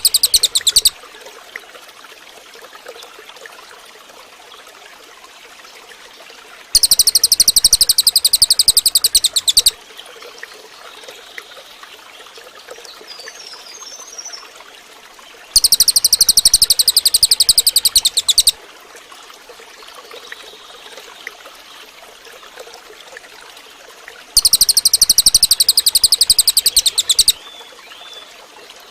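Cililin bird song: a loud, high, very fast trill lasting about three seconds, repeated three times about nine seconds apart, with the end of another trill right at the start. Between the trills there is a soft steady background hiss.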